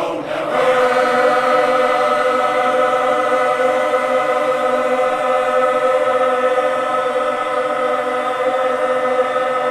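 Glee club choir holding one long sustained chord, swelling in about half a second in and held steady without a change of pitch.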